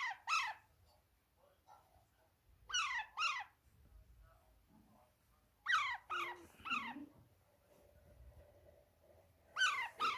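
Baby Alexandrine parakeet calling: short squeaky calls that fall sharply in pitch, given in pairs and once in a run of three, repeating every few seconds.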